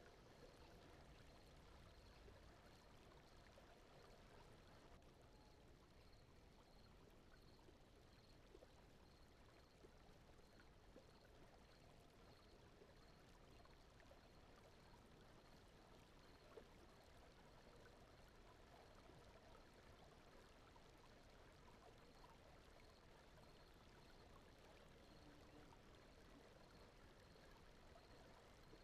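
Very faint, steady brown-noise bed mixed with a soft flowing-stream water ambience, with a faint high tone pulsing evenly throughout.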